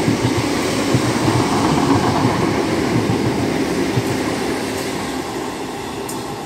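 An electric multiple-unit passenger train passing through the station at speed: a rumble of wheels on rail with an irregular run of thuds from the wheels over the track. It fades over the last couple of seconds as the train pulls away.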